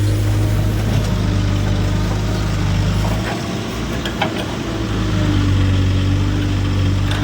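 Heavy farm engine running steadily at an even speed, a constant low hum.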